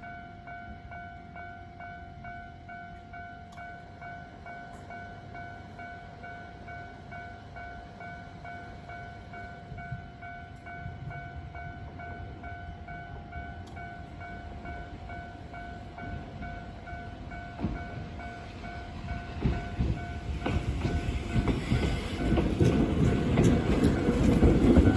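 A steady, evenly pulsing bell tone rings for most of the time. Then, from about two-thirds of the way in, the running noise of an Alpico Kotsu 20100-series electric train grows steadily louder, with wheels clacking over the rail joints.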